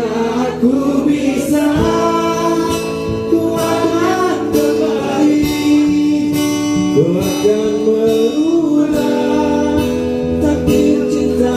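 Pop song: a singer holds a wavering melody over steady instrumental accompaniment.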